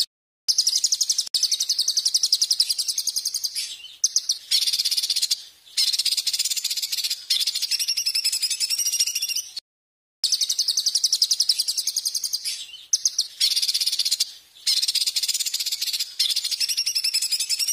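A songbird's rapid, shrill trilling, very fast repeated high notes in runs of a few seconds that break off abruptly, with one dead-silent gap about ten seconds in. It is a looped masteran recording used to teach caged songbirds their song.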